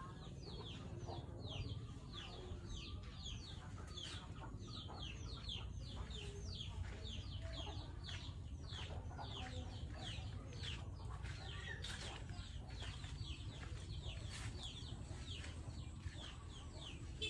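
A bird peeping over and over: short, high, falling peeps, about two a second, over a low steady rumble.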